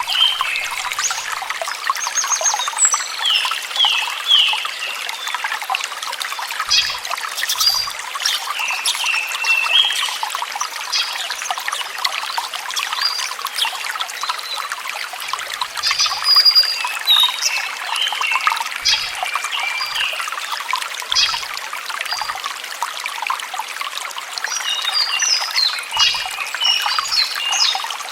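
Water trickling steadily, with small birds chirping in short bursts every several seconds over it, busiest near the end.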